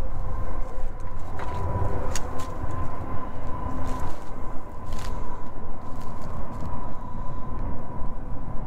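Freight train passing: a steady low rumble with a thin steady whine and a few sharp clanks, the loudest about 2 and 5 seconds in.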